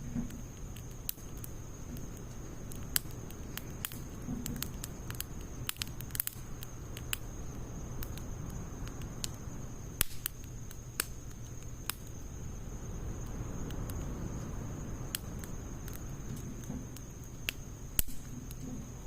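Wood fire of logs and pine needles crackling, with irregular sharp pops, several per second at times, over a steady low rumble of burning.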